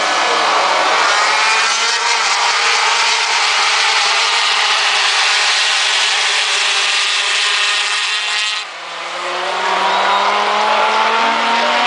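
MotoGP racing motorcycle engines at high revs, loud and continuous with several engine notes gliding in pitch. Near the three-quarter mark the sound dips briefly, then a new engine note rises in pitch.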